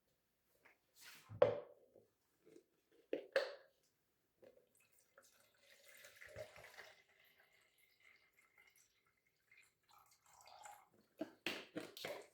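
A few separate sharp knocks and clatters, with a soft watery trickle about six seconds in and a cluster of quicker knocks near the end.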